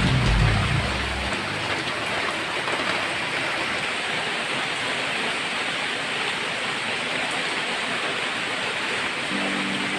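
Steady rain falling, an even hiss and patter.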